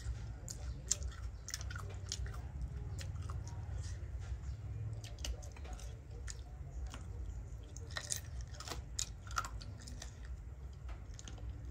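Someone chewing pickled chicken feet close to the microphone: irregular crisp crunches and clicks over a low rumble.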